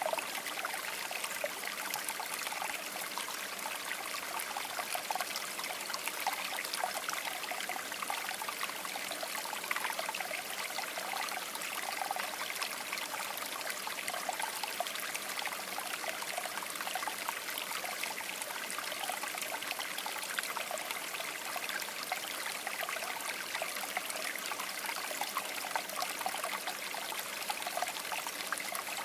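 Shallow river water babbling steadily over rocks, a continuous bright rush with fine splashing and trickling.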